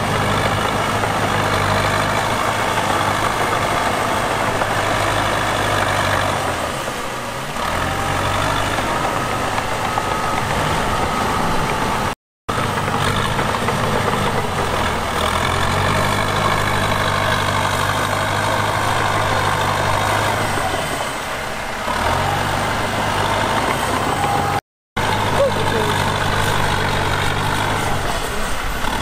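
Heavy diesel engines of earthmoving machines (bulldozer and dump trucks) running steadily under work, the note easing off briefly twice. The sound cuts out for a moment twice where the footage is edited.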